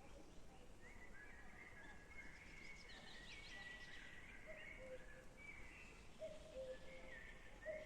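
Faint outdoor birdsong: several birds chirping and warbling. From about halfway through, a low two-note call repeats every second or two.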